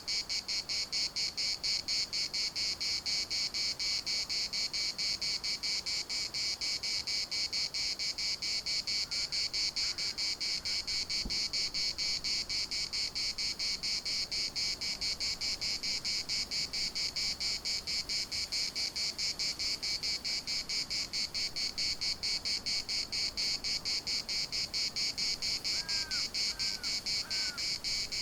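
Cicadas singing in a steady chorus, a shrill buzz pulsing at about five beats a second. Three faint short calls come near the end.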